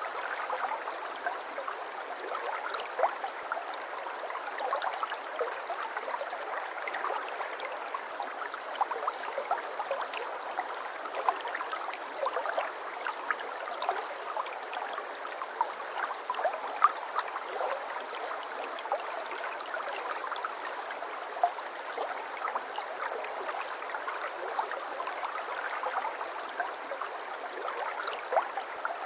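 Shallow babbling brook running over stones: a steady burble with many small irregular splashes and gurgles.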